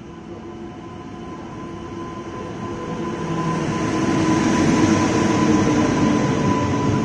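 Indian Railways electric locomotive and its coaches running in along the station platform: the train noise builds steadily as it approaches and is loudest from about four seconds in, as the locomotive and the first coaches pass close by.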